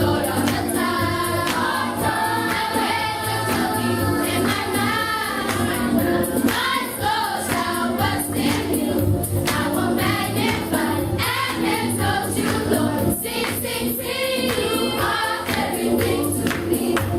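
Choir singing gospel music with instrumental accompaniment and steady percussion.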